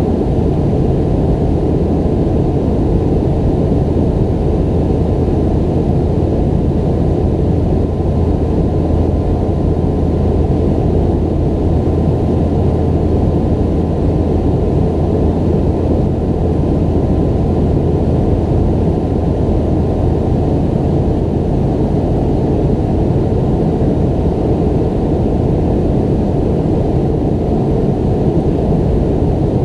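Steady cabin noise inside a McDonnell Douglas MD-90-30 airliner in flight: the rear-mounted IAE V2500 turbofans and airflow make a constant deep drone with a faint steady whine above it.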